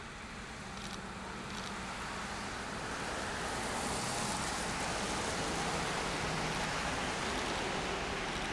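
Train passing: a steady rushing roll of wheels on rail that builds over the first few seconds and then holds.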